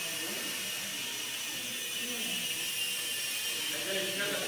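Steady hiss with faint background voices, which become more distinct near the end.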